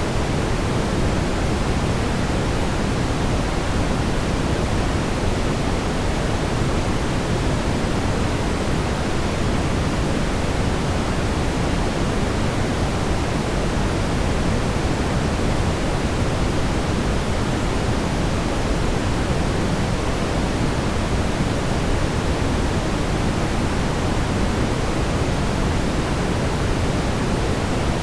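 Steady brown noise: a constant, even rumble of deep noise, strongest in the low end and growing weaker toward the highs, with no change or pattern.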